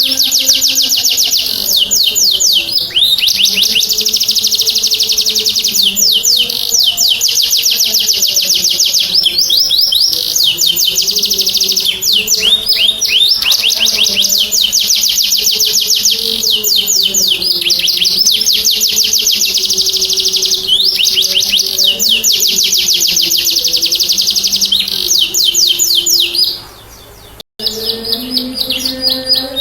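Domestic canary singing long rapid trills, strings of fast repeated notes changing from one trill to the next. The song dips and breaks off briefly about 27 seconds in, then resumes.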